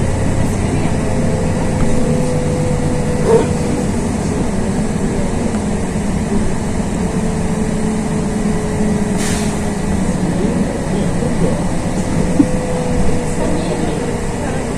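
Cabin sound of a LiAZ 6213.22 articulated city bus underway: a steady drone of engine and road with a thin whine that slowly sinks in pitch toward the end, and a couple of short knocks.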